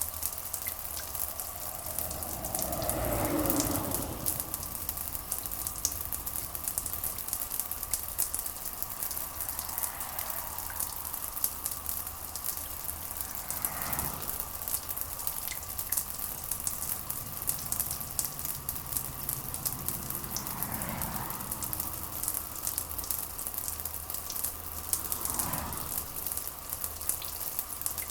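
Steady rain pattering, with many fine drop clicks. Soft, short swells of sound rise and fade every few seconds.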